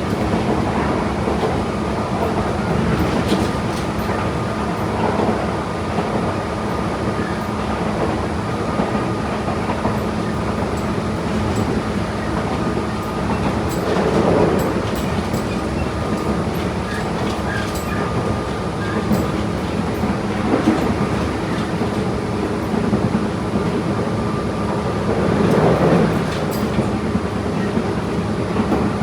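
Tobu 8000 series electric train running along the line with a steady motor hum and wheel noise. Wheels click over rail joints now and then, and the running noise swells louder twice.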